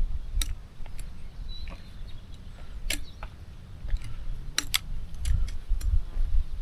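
Wind rumbling on the microphone, with sharp clicks and taps every second or so at irregular spacing.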